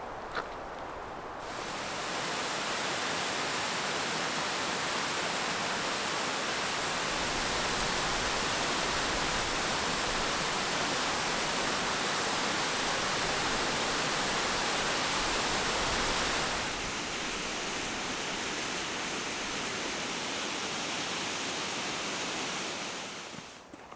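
A waterfall's steady rushing noise, starting about a second and a half in. Its tone shifts suddenly about two-thirds of the way through, and it falls away just before the end.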